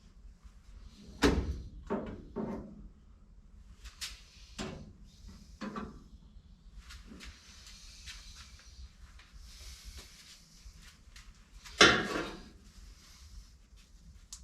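Work on a 1955 Chevrolet 210's door and window: a series of knocks and clunks, the loudest about a second in and again near the end, with scraping in between.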